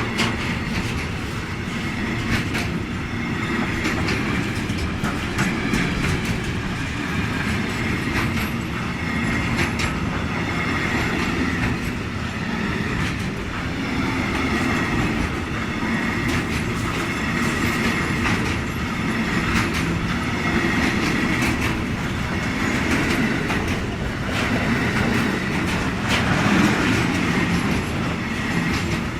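Freight train wagons rolling past at speed: a steady rumble of steel wheels on rail with a clatter that repeats every second or two as the wheelsets pass.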